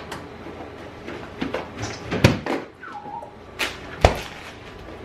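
Two sharp knocks, about two and four seconds in, with a short falling meow from a house cat between them.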